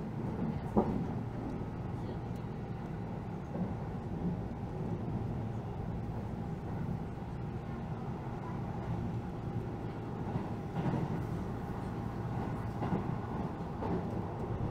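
Keihan Rakuraku limited express train running at speed, heard from inside the passenger car: a steady rumble of wheels on rails, with a sharp knock about a second in.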